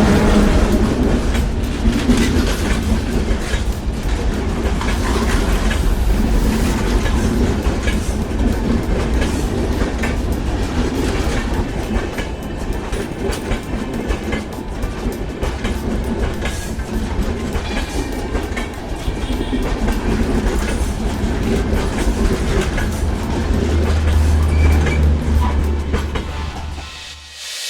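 Train passing close by, its wheels clattering steadily over the rails with a deep rumble underneath; the sound drops away just before the end.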